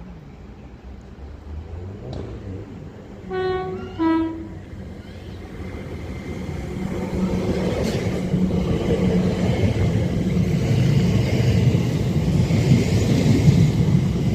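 A West Midlands Railway Class 730 electric multiple unit sounds two short horn notes, high then slightly lower, about three and four seconds in. The train's rumble then builds steadily as it approaches and runs through the station.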